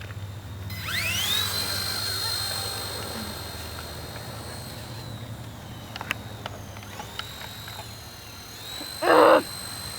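Small electric motor of a Syma F3 toy RC helicopter spinning up with a rising whine about a second in, then holding a steady high whine as the rotors whir, easing off and climbing again with the throttle. A short louder sound cuts in near the end.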